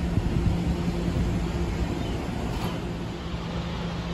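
Steady low hum and rumble of a train, a low humming tone with a fainter one above it; it eases a little about halfway through.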